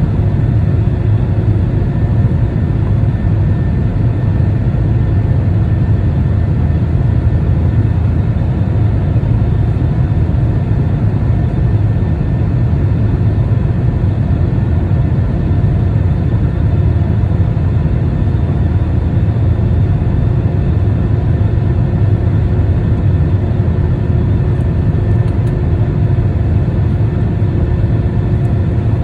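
Steady airliner engine noise heard from inside the cabin: a loud, even low rumble with a faint constant drone over it, holding the same level throughout.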